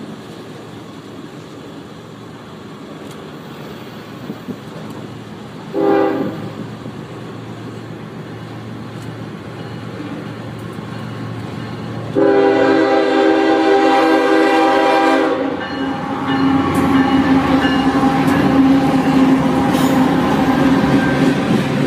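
Diesel locomotive horn on a coal train: a short blast about six seconds in and a longer blast about twelve seconds in. Then the train passes close, with a loud steady drone and rail rumble.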